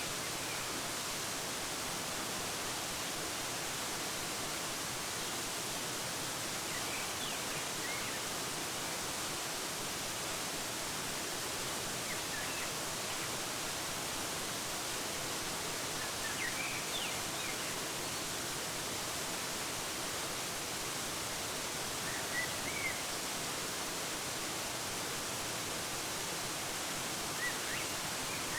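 Waterfall rushing as a steady, even hiss, with short faint bird chirps every few seconds.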